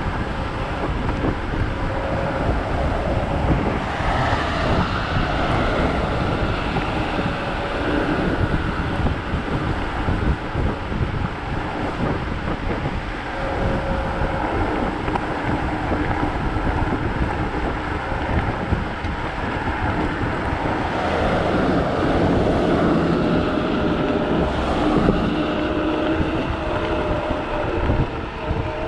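Wind buffeting the microphone while riding a Kaabo Wolf GT Pro electric scooter, over steady road noise. A faint whine drifts in pitch, growing a little louder about two-thirds of the way through.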